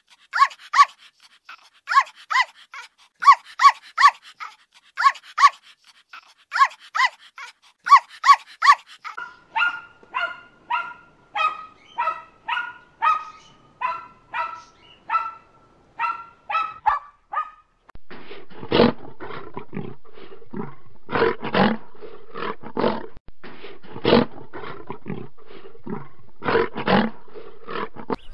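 A Yorkshire terrier yapping in quick groups of three or four high barks. After about nine seconds, a corgi barks about twice a second in a steady run. After about eighteen seconds, a lioness growls in a series of deeper calls about once a second over a steady hiss.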